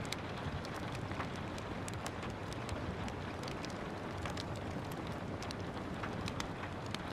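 Steady rain with a wood fire crackling over it: a constant hiss of rainfall and irregular sharp pops and snaps from the burning logs.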